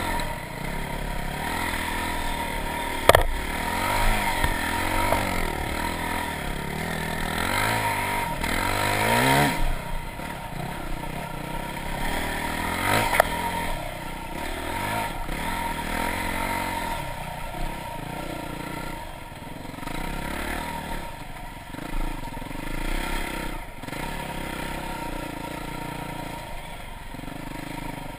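Dirt bike engine being ridden off-road, its revs rising and falling with the throttle, with a long climb in pitch about a third of the way through. Two sharp knocks cut through, one early and one around the middle.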